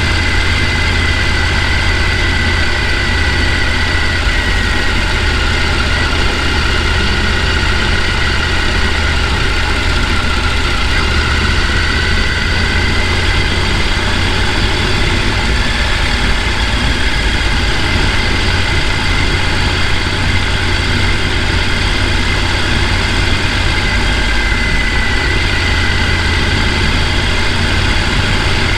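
Rushing water of a mountain stream: a loud, steady rush with a deep rumble underneath that does not change.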